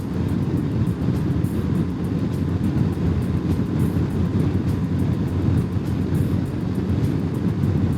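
Steady rumble of a BMW G 310 GS motorcycle's single-cylinder engine with wind and road noise while riding at speed.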